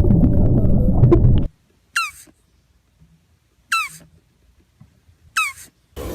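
A loud, low rumbling sound cuts off abruptly about a second and a half in. Then an animal gives three short, high squeaky calls, each falling in pitch, spaced about a second and a half apart.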